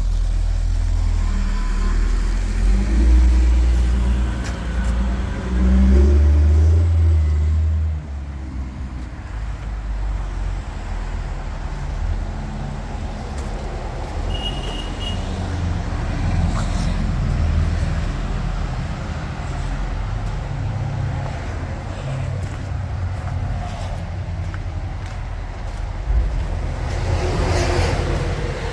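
Caterpillar C15 inline-six diesel engine of a 2003 Kenworth W900 truck running. It is louder, with surges, for about the first eight seconds, then drops suddenly to a steady, lower level.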